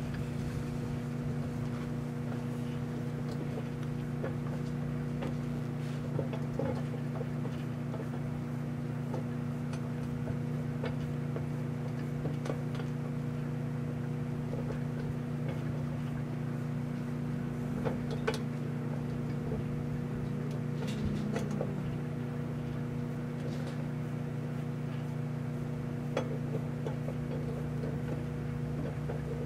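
Microwave oven running with a steady hum, heating a metal can of Spam; a few faint ticks now and then.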